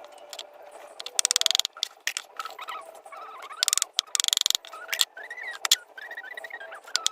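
Chickens and ducks feeding on banana: two bursts of rapid pecking clicks, with a few short soft calls in between.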